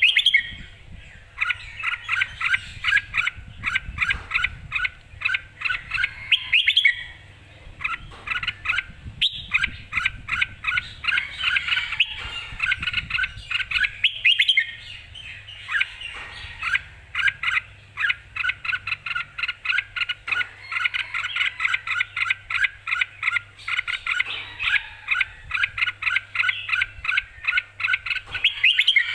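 Red-whiskered bulbul singing: long runs of rapid, clear, repeated chirping notes with only brief pauses, the lively full song of a bird in fighting form.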